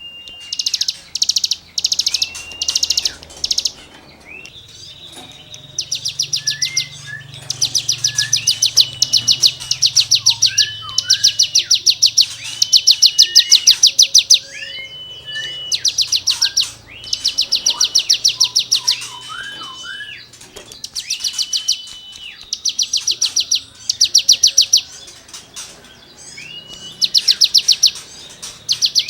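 A cigun songbird singing loudly in repeated rapid, rasping trills, each lasting one to two seconds and opening with a short whistled note. Softer, lower whistled notes come between the trills.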